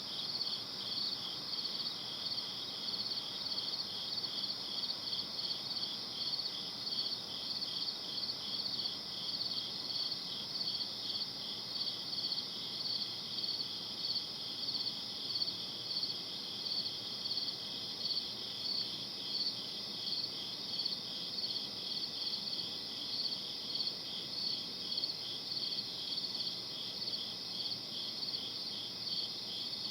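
Crickets chirping at night in a steady chorus, the chirps repeating evenly several times a second over a faint background hiss.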